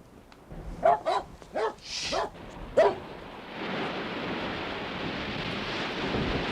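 A dog barking in a quick run of about six sharp barks, then a steady rushing noise takes over for the rest of the time.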